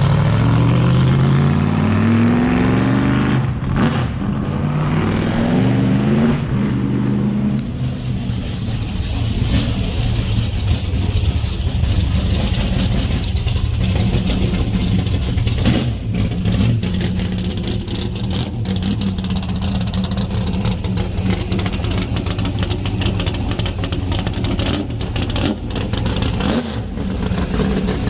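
1969 Corvette's newly installed V8 accelerating hard, its pitch climbing and dropping back at two gear shifts in the first seven seconds or so. It then settles into a steady cruise.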